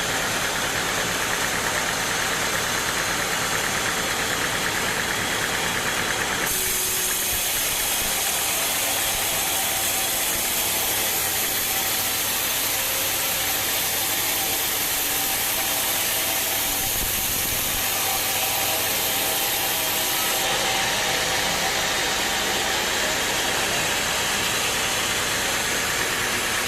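Sawmill machinery running steadily. From about six seconds in until about twenty seconds in, the sound turns brighter and hissier.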